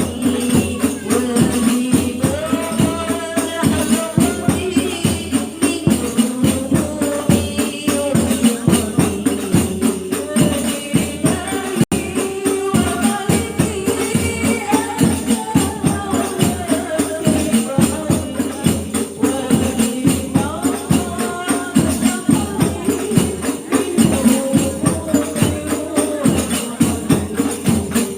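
Women's group singing Islamic sholawat in unison, accompanied by hadroh frame drums beating a fast steady rhythm with jingling tambourine-like strokes. The sound drops out for an instant about twelve seconds in.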